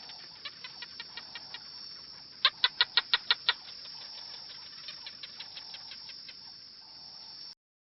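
A bird calling in quick runs of short, sharp notes, about six a second, with the loudest run of seven notes about two and a half seconds in and quieter runs before and after.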